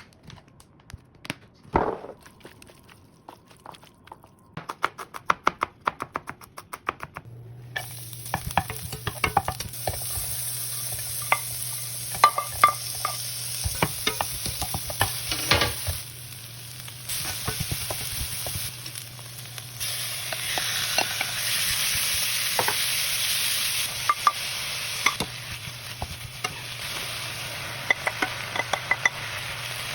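A few scattered knocks, then a run of quick, even knocks, then from about eight seconds in beef bulgogi and vegetables sizzling in a frying pan, with a low hum under the sizzle and the clack and scrape of a utensil stirring the meat.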